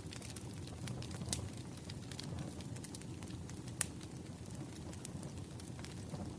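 Wood fire crackling: a steady low rumble with scattered sharp pops and snaps at irregular intervals, the loudest pop about four seconds in.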